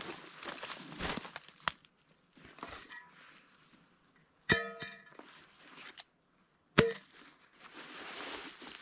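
Crunching footsteps and rustling of gear, with a few sharp knocks. The loudest knock, about halfway through, rings briefly like struck metal.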